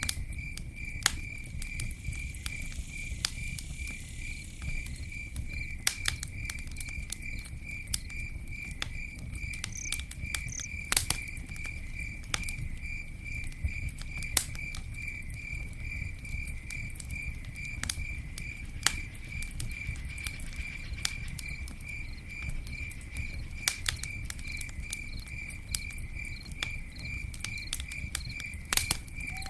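Campfire crackling, with irregular sharp pops and a low rustling rush of burning wood, over a cricket chirping steadily at an even pulse of a few chirps a second.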